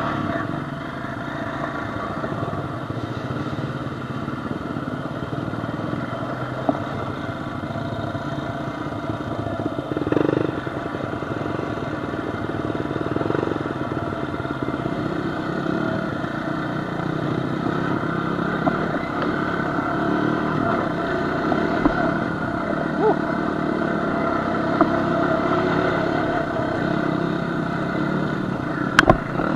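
Off-road vehicle engine running steadily at a cruising pace along a trail, with occasional rattles and knocks from the ride.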